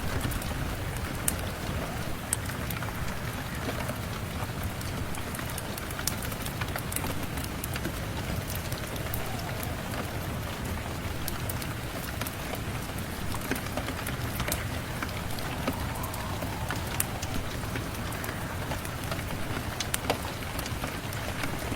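Steady rain mixed with a crackling wood fire: scattered sharp pops and ticks over the rain's even hiss.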